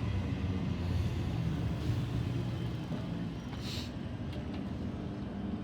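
Electric suburban trains standing at the platform, with a steady low rumble and hum from their running equipment. A short hiss comes about halfway through.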